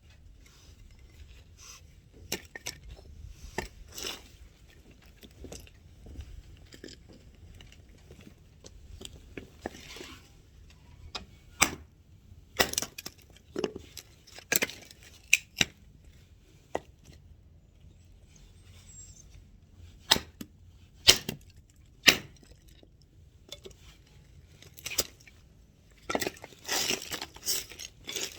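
Irregular sharp knocks and clicks, scattered and uneven rather than a steady chopping rhythm, with a dense flurry of them near the end.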